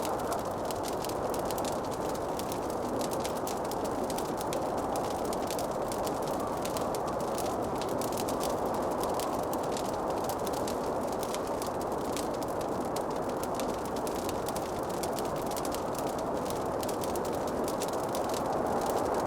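Wood fire in a fireplace crackling with constant small irregular pops over a steady rushing noise.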